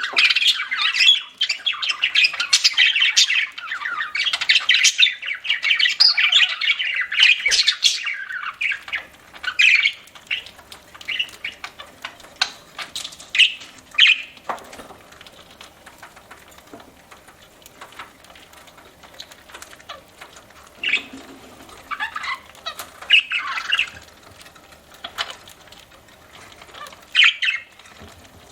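Budgerigars chattering: a dense, continuous warble of squawks and chirps for the first eight seconds, then thinning to scattered short chirps and calls with a few sharp clicks.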